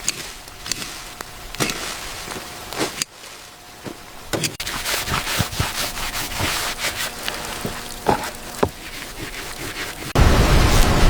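Scattered knocks and clicks with scraping, then a loud steady rushing noise cuts in about ten seconds in.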